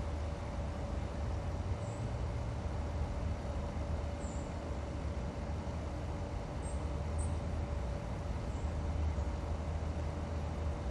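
Steady low rumble of distant vehicle traffic with a constant hum over it, and a few faint high chirps.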